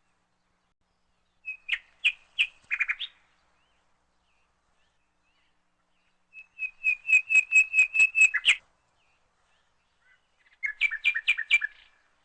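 A bird chirping in three bursts of quick repeated notes, the middle one the longest with about a dozen notes in a row.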